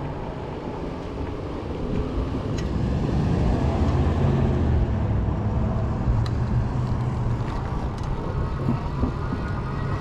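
Riding noise from a folding fat-tire e-bike under way: a steady low rumble of wind on the microphone and fat tyres rolling, with a few light clicks and a faint thin whine coming in near the end.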